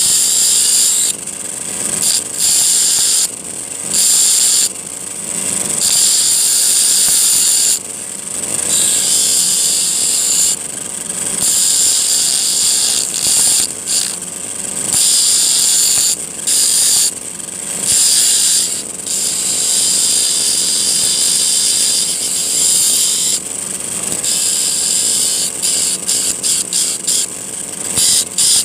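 Steel file being ground on a disc driven by a grass-cutter motor: a loud, high-pitched grinding hiss with a whistling edge. It breaks off and starts again every second or two, and flickers on and off quickly near the end.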